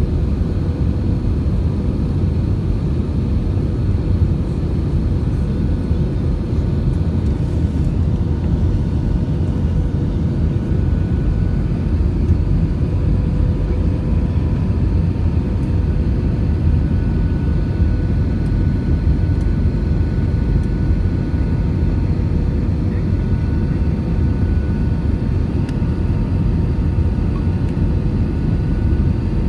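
Steady low cabin roar of an Airbus A320 in flight, its engines and the airflow over the fuselage heard from inside the passenger cabin, with a few faint steady tones above the rumble.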